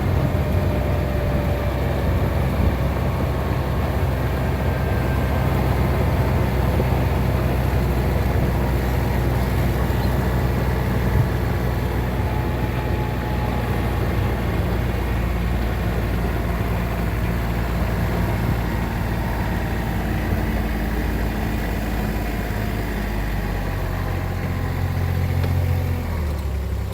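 A motor vehicle's engine running steadily, its low hum dropping in pitch near the end.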